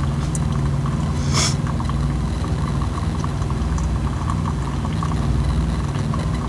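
Keurig Slim coffee maker brewing, with light clicking and a short hiss about a second and a half in, over a steady low mechanical hum like an idling engine.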